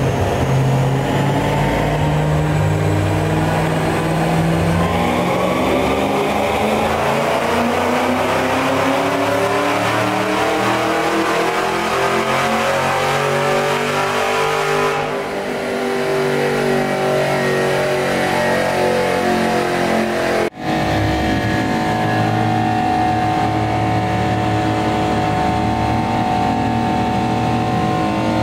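Chevrolet Camaro's engine on a chassis dyno, pulling up through the revs in one long, slow climb for about fifteen seconds, then backing off. After a brief break about two-thirds of the way in, an engine runs at a steady speed.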